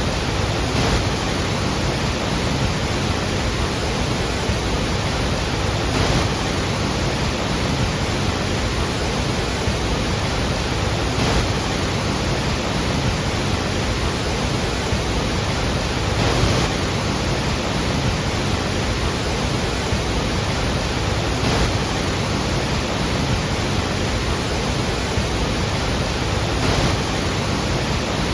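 Iguazu Falls waterfall: heavy falling water making a steady, dense rush, with slight swells about every five seconds.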